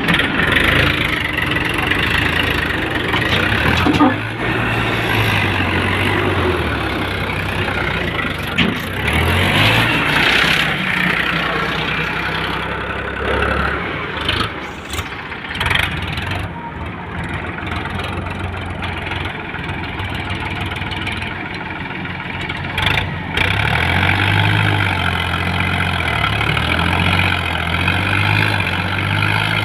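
Diesel engine of heavy machinery running under work, its revs rising and falling, with a few knocks along the way.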